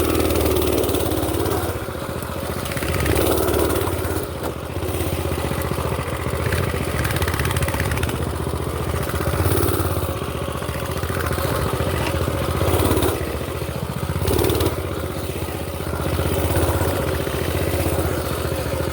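Small mini bike engine running while riding along a bumpy trail, getting louder and easing off every few seconds as the throttle is worked.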